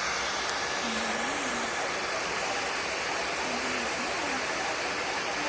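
Hairdryer blowing with a steady hiss throughout. Two faint low wavering tones come through it, about a second in and again around four seconds in.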